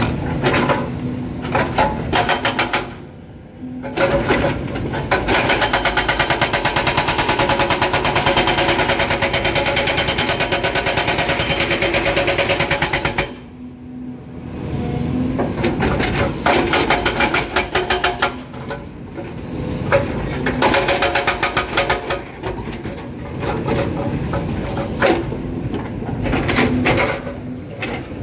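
Excavator-mounted hydraulic breaker hammering rock with rapid, steady blows. It stops briefly a few seconds in and again about halfway, then hammers on in shorter runs.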